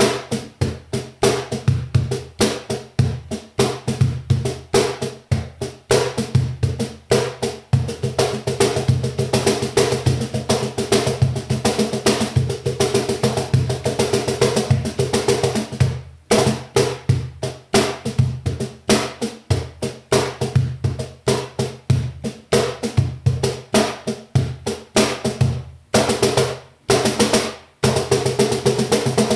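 LA ROSA Studio cajon played by hand in a fast, continuous groove: deep bass tones from the front plate's centre mixed with crisp slaps whose snare wires buzz on every stroke. The playing stops briefly twice, about sixteen seconds in and again near the end.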